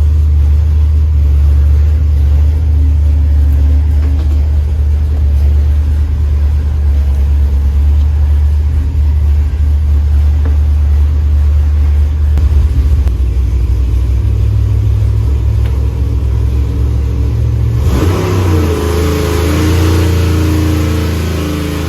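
Stroked 7.0-litre (427 ci) iron-block LS V8 running loaded on an engine dyno, with a steady deep note for most of the time and then a change near the end as rising tones come in while the rpm is brought up. It is running rich, with no ignition timing added yet.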